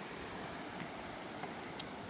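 Fast-flowing river rushing steadily, with a few faint clicks over it.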